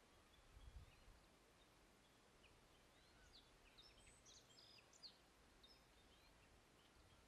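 Black-headed bunting singing faintly: one short phrase of quick, high chirping notes about three seconds in, lasting a couple of seconds. A low rumble comes near the start.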